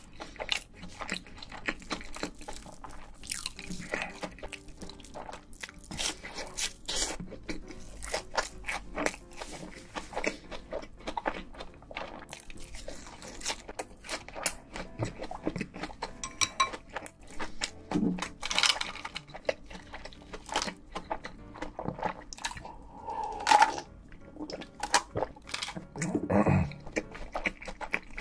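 Close-miked chewing of a crispy hash brown: a steady run of crunches and wet mouth sounds.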